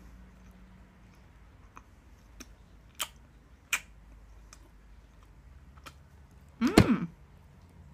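Close-up mouth sounds of someone eating a pizza pocket: chewing with several sharp clicks scattered through it. About seven seconds in comes a short, loud hummed "mmm".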